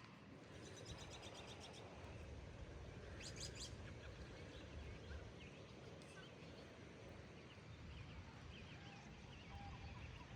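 Faint outdoor ambience: birds chirping in quick runs and scattered single calls over a low, steady rumble.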